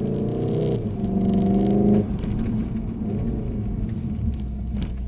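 Car engine accelerating hard, its pitch climbing, dipping at a gear change just before a second in, then climbing again. About two seconds in the throttle is eased off and the engine note drops to a steady road rumble.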